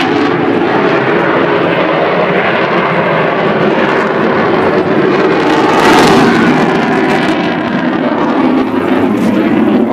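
Jet aircraft passing overhead with its landing gear down: a loud, steady engine rush that swells about six seconds in.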